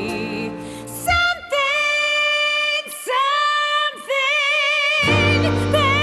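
A woman singing a ballad, holding long notes with vibrato over a thin accompaniment. The full band comes back in about five seconds in.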